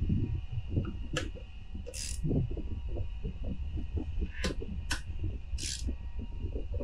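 Irregular metallic clicks and clinks of hand tools and engine parts being handled, over a steady low hum.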